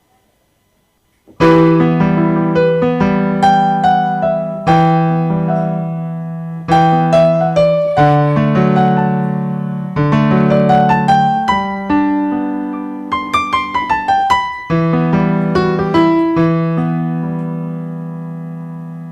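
Concert piano tone of a Roland GW-8 arranger keyboard being played: a short passage of chords with a melody on top, starting about a second and a half in. The last chord is left to ring and fade.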